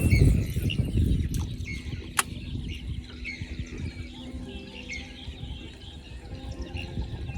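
Birds chirping in short, repeated calls over a low rumble that is loudest in the first second, with a single sharp click about two seconds in.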